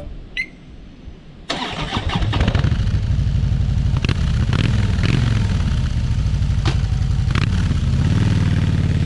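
2013 Harley-Davidson Softail Slim's Twin Cam 103 V-twin engine starting suddenly about a second and a half in, then idling, and rising in pitch near the end as the bike pulls away.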